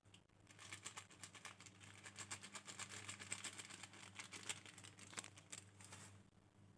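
Food frying in hot oil in a pan: dense, irregular crackling and spattering that starts about half a second in and stops near the end, over a faint steady hum.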